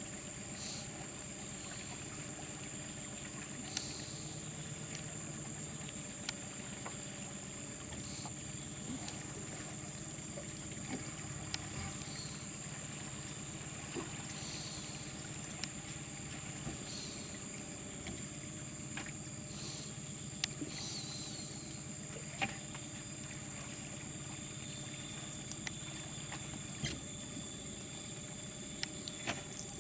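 Rainforest ambience: a steady, high-pitched insect drone with a low, even hum beneath it, broken by scattered small clicks and a few faint chirps.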